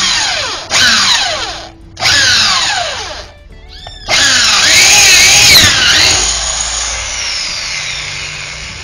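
Electric drill boring through a wooden slat into an aluminium chair-frame tube with a bit for wood and aluminium. It runs in three short bursts and then one longer run of about five seconds, the motor's whine dropping in pitch within each burst.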